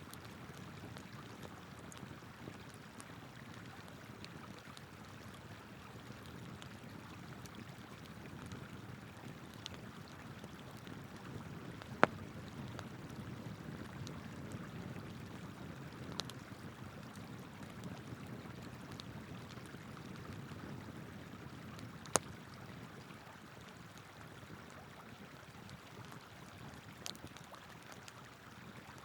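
River water flowing steadily, with a wood campfire crackling over it: two sharp pops about twelve and twenty-two seconds in, a few smaller cracks and faint ticks between.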